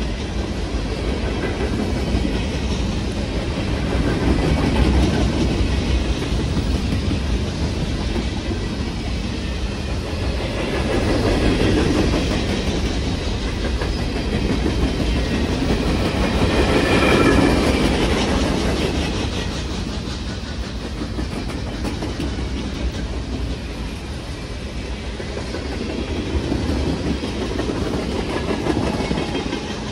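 Freight cars (covered hoppers, open hoppers and tank cars) rolling past on the rails, a steady rumble with wheels clattering over the rail joints. The sound swells and eases as cars go by, loudest about halfway through, where a brief high metallic ring comes off the wheels.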